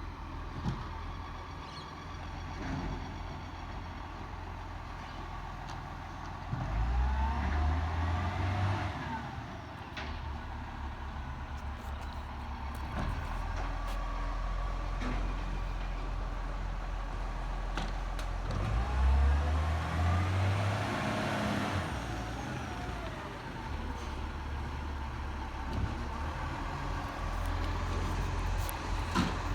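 Garbage truck's diesel engine running, revving up twice, about a quarter of the way in and again about two-thirds through, its pitch rising and then falling each time.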